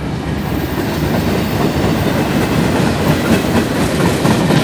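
Freight train cars rolling past on steel wheels: a steady loud rumble on the rails with scattered wheel clicks.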